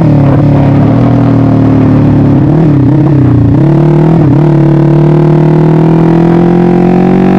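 Yamaha MX King single-cylinder four-stroke engine, bored out to 300cc, running loud. The revs dip and jump a few times about three to four seconds in, then climb slowly and steadily.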